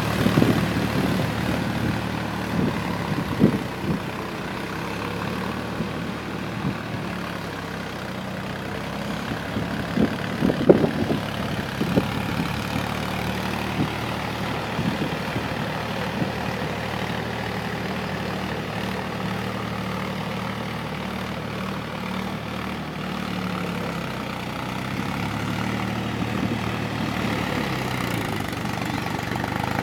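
Tractor engine running steadily, with a few sharp knocks about three seconds in and again around ten to twelve seconds in.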